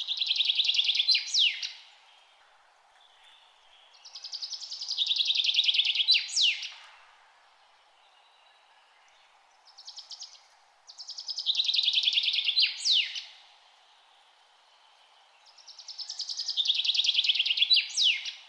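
A songbird singing the same song over and over, about every five to six seconds. Each song is a rapid trill that grows louder and ends in a couple of quick, sharp sweeps in pitch. A faint steady background noise sits underneath.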